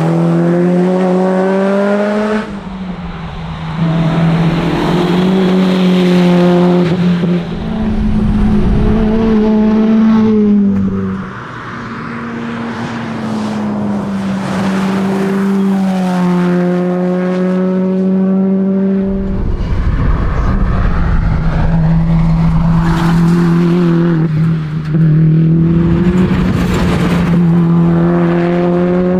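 Subaru WRX STi Spec C's turbocharged flat-four engine driven hard at rally pace, its pitch repeatedly climbing as it revs out and dropping at each gear change or lift off the throttle, with a brief fall in pitch as it slows about halfway through.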